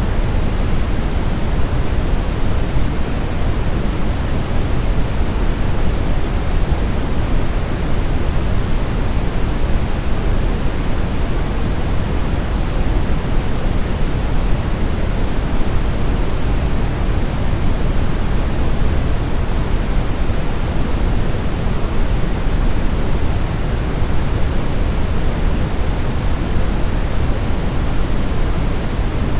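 Continuous brown noise: a steady, even rushing hiss weighted heavily toward the low end, with no changes or events.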